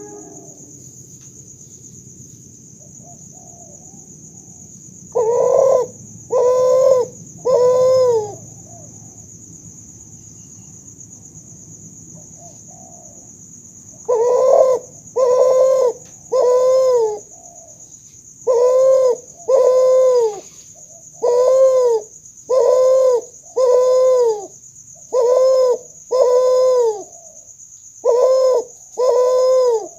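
Hybrid spotted dove × Barbary dove ('kuter') cooing: deep notes that each rise and fall in pitch, given in phrases of two or three with pauses between, about a dozen notes in all after a quiet start. A steady high-pitched whine and a low hum run underneath.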